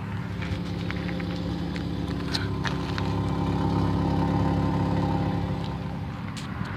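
A 2007 Toyota Yaris's 1.5-litre four-cylinder engine idling steadily and smoothly, growing a little louder in the middle.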